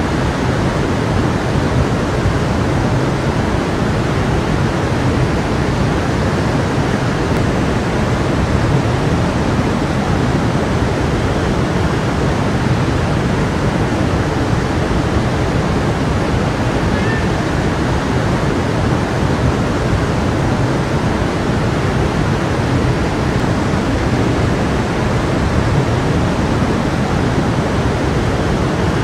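A stream of water flowing and rushing steadily over its bed, a continuous even wash of sound.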